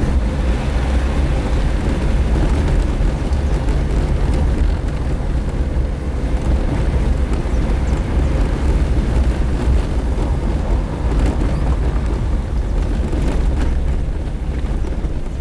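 Suzuki Jimny driving on a dirt road: steady engine and tyre rumble, strongest in the low end.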